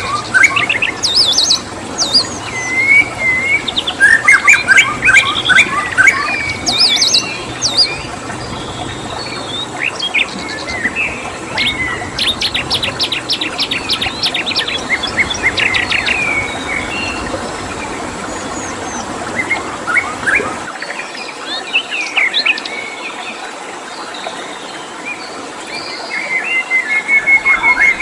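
Several songbirds chirping and singing in overlapping phrases, including a fast run of evenly spaced notes partway through, over a steady background hiss.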